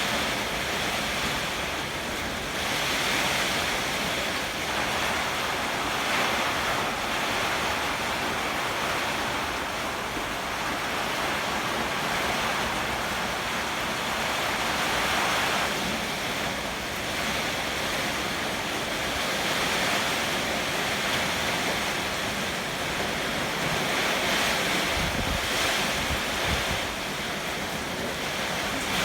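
Heavy typhoon rain driven by strong wind: a dense, steady hiss that swells and eases with the gusts. A brief low rumble comes a few seconds before the end.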